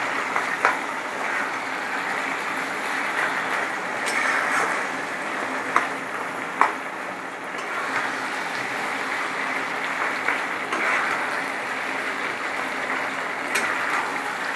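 Taro greens with hilsa fish head frying in mustard oil in a non-stick kadai, stirred with a spatula: a steady sizzling hiss with a few sharp clicks of the spatula against the pan.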